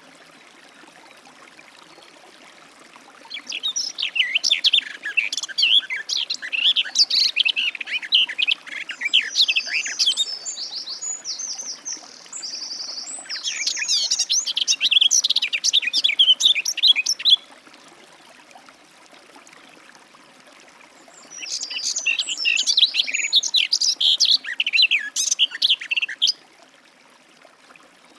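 Garden warbler singing three long bouts of its fast, rich, rambling warble, each several seconds long, with quiet pauses between. Toward the end of the first bout comes a run of evenly repeated, higher notes.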